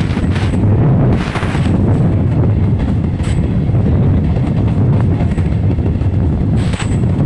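Passenger train running at speed: a loud, steady low rumble with a few short bursts of hiss.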